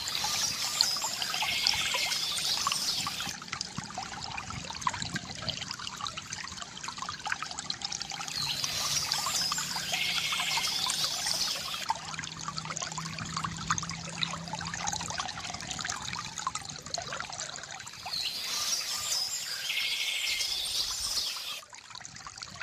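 Water from a bamboo fountain spout trickling and pouring steadily, with a bird's chirping and trilling coming in three times at roughly nine-second intervals.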